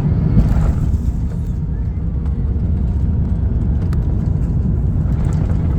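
Steady low rumble inside the cabin of an Airbus A350-1000 on the ground after landing, engine and rolling noise with no sharp events.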